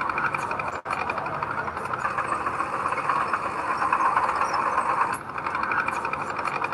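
Heavy diesel earthmoving machinery running steadily with a busy clatter. The sound cuts out for an instant about a second in.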